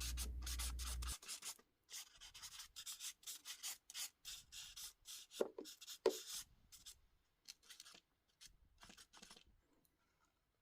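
Pen scribbling on paper in quick, short strokes, fading out about nine seconds in.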